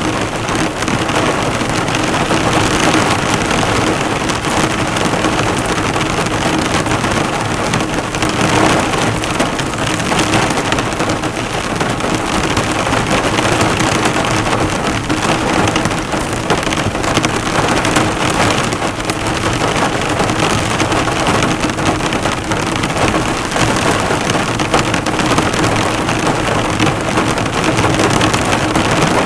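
Heavy rain drumming steadily on a car's hood and bodywork, the drops bouncing off the metal in a dense, unbroken patter.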